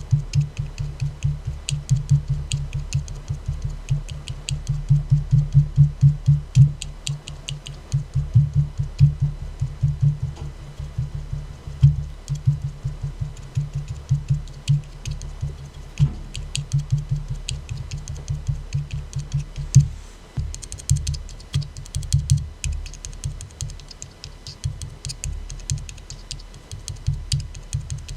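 Fingers tapping quickly on an aluminium soda can, in fast flurries of taps with short pauses between them, each tap a low thud with a light click.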